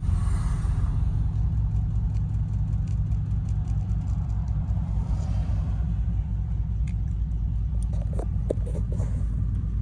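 Steady low rumble of a moving vehicle, with faint scattered ticks over it.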